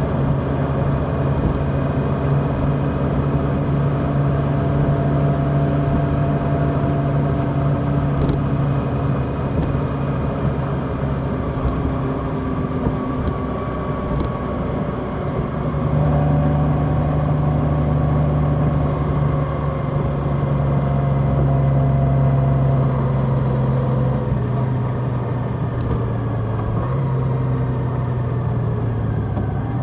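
Large motorcycle's engine running steadily under way, its note stepping up about halfway through and easing down near the end.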